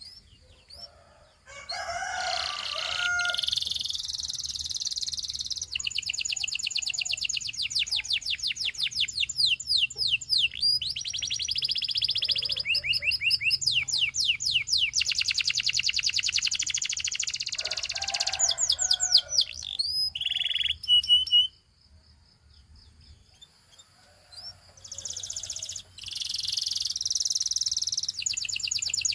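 Domestic canary singing a long song of rapid trills and rolling phrases mixed with held whistled notes. The song breaks off about three quarters of the way through and resumes near the end.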